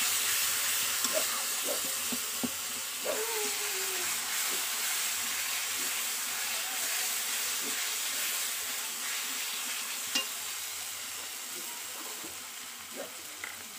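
Onion-tomato masala with ground coriander and cumin sizzling in a kadai, loosened with a splash of water, while a spatula stirs and scrapes it against the pan. The sizzle fades gradually, with a few short scrapes of the spatula.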